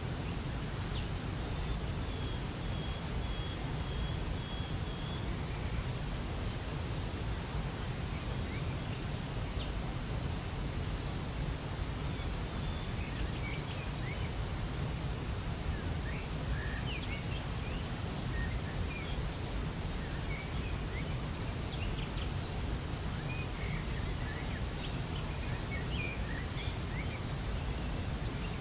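Steady rushing of a waterfall, heaviest in the low end, with small birds chirping over it: a high held note in the first few seconds, then scattered short chirps through the rest.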